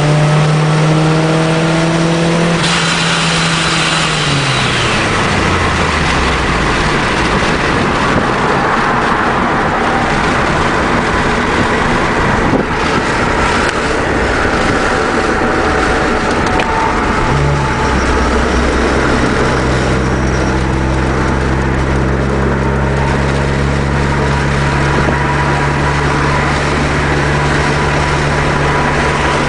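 Supercharged 2.5-litre four-cylinder of a 2004 Nissan Sentra SE-R Spec V through a Nismo exhaust, pulling with a rising note for the first couple of seconds, then falling away with a brief high falling whine as the car coasts on road noise. From about 17 seconds in the engine holds a steady low drone.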